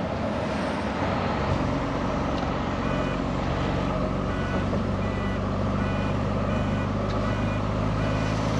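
ERF lorry's Cummins diesel engine running steadily under way, heard from the cab, its note settling to a steady hum about a second and a half in. From about three seconds in, a short high beep repeats evenly.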